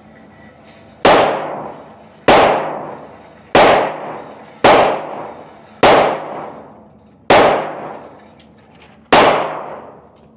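Handgun firing seven shots at a steady, unhurried pace, roughly one every second and a quarter. Each report echoes and dies away before the next.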